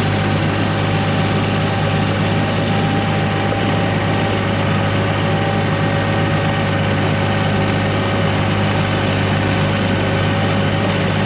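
1985 John Deere 1050 tractor's three-cylinder diesel engine running steadily at a constant speed with a deep, even hum and a faint steady whine above it while clearing snow.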